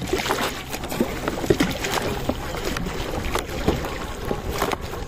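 Sea water lapping and sloshing around kayaks, with scattered light knocks and clatter.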